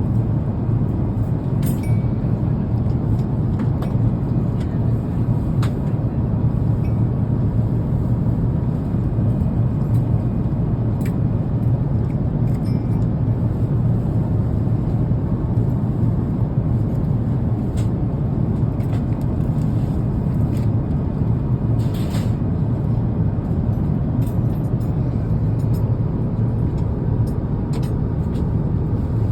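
Steady, low rumble of cabin noise inside an Airbus A350 airliner, even throughout, with a few faint clicks on top.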